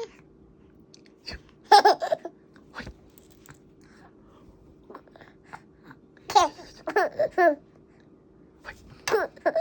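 A baby laughing and babbling in short high-pitched bursts: a giggle about 2 s in, a longer run of laughing about six and a half seconds in, and another near the end.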